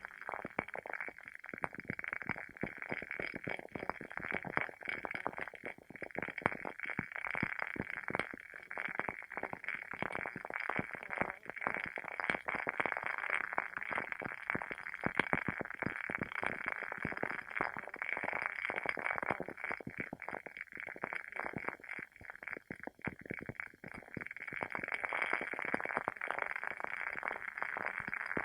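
Wooden candle wick burning with a dense, continuous crackle of small pops, like a tiny fire.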